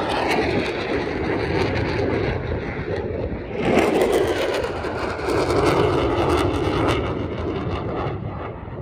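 Airplane engine noise from an aircraft in flight, a steady rushing sound that swells about three and a half seconds in and fades toward the end.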